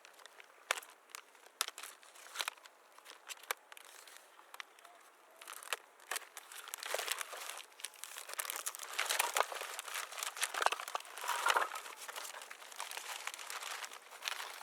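Crinkling and rustling of something being handled up close, with scattered light clicks and taps, growing into a denser crinkling stretch from about six seconds in.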